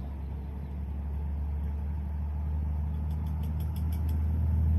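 An engine or motor running with a steady low hum that grows gradually louder.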